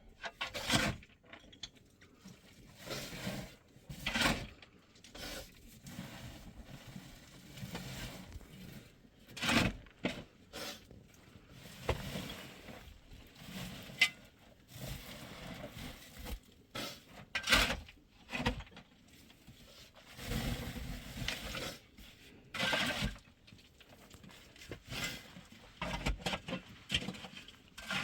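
Irregular scrapes and knocks, a few seconds apart.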